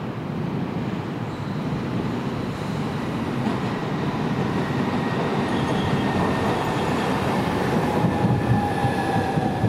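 Southeastern Class 395 "Javelin" electric multiple unit running into the platform: a rumble of wheels on rail that grows louder as the train comes alongside, with high, steady whines joining it over the last few seconds.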